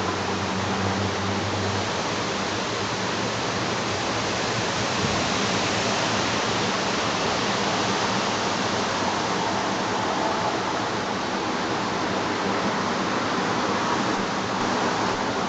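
Strong wind, about 8 m/s, blowing steadily: an even rushing noise with no breaks.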